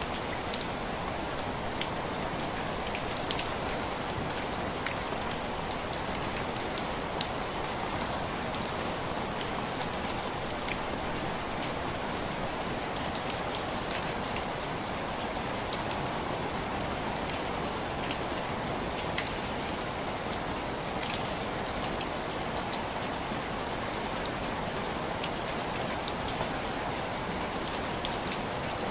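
Steady rain tapping on window glass, a constant hiss with scattered sharp drop ticks.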